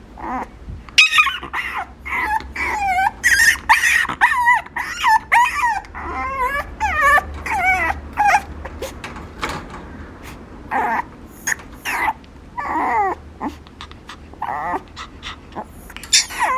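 Papillon puppy whining and yipping in a long run of short, high, wavering cries, packed closely in the first half and more spaced out later.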